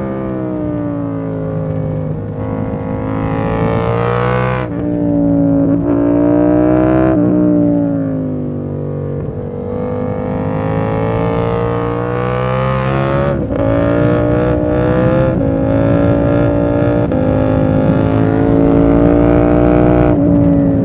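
KTM 890 Duke R's parallel-twin engine heard onboard as the bike is ridden. Its pitch rises under acceleration and drops sharply at each gear change, several times, with a few short sharp cracks in the middle.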